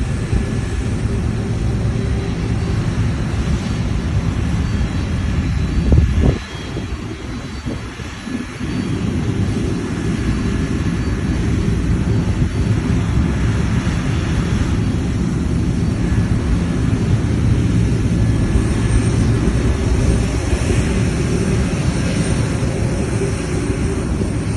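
Jet cargo aircraft engines running, a steady low rumble with a brief louder surge about six seconds in.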